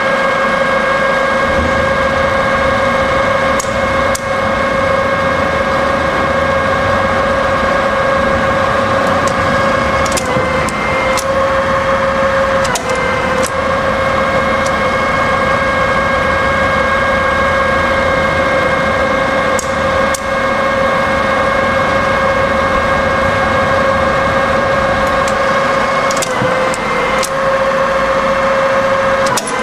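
Cincinnati 012 rise-and-fall milling machine running through its automatic cycle: a steady, loud gear and motor whine, with sharp clicks and a brief dip in the whine a few times as the table stops and the spindle carrier moves.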